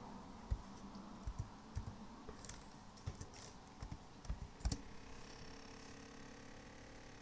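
Asus UX431F laptop rattling: a dozen or so irregular light clicks and knocks over about four seconds. After that a faint steady hum comes in.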